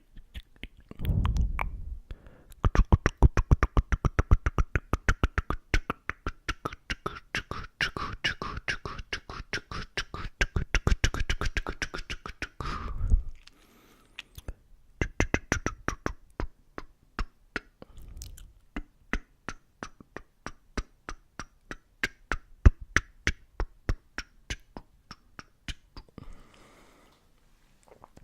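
Close-miked ASMR mouth clicks: a fast, even run of about eight clicks a second for some ten seconds, then a slower, scattered run of clicks.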